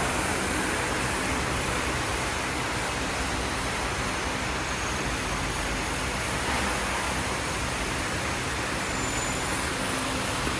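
Steady workshop background noise: an even hiss with a faint low hum and no distinct events.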